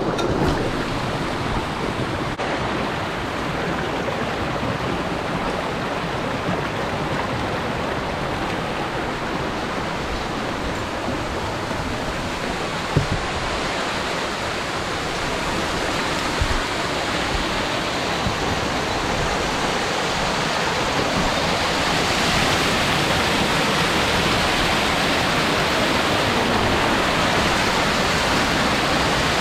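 Steady rush of water from a tall, thin mountain waterfall, the hiss growing brighter about two thirds of the way in. A single sharp knock is heard near the middle.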